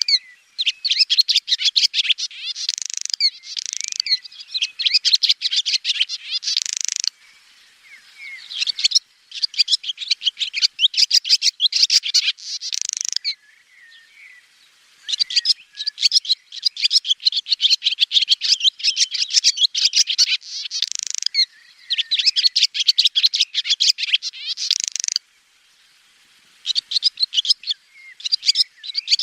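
Swallow twittering: rapid runs of high chirps and trills in phrases of a few seconds, broken by short pauses.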